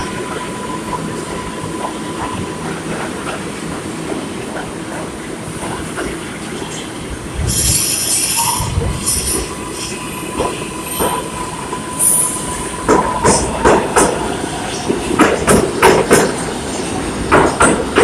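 NYC Subway Kawasaki R142A train running on the rails with a steady rumble and a faint steady whine. A burst of hiss comes about seven seconds in. From about twelve seconds the wheels clack and knock over rail joints in quick clusters.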